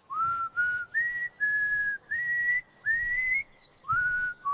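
Someone whistling a short, simple tune: about seven clean single notes, each sliding up into its pitch, climbing over the first three seconds and dropping back near the end.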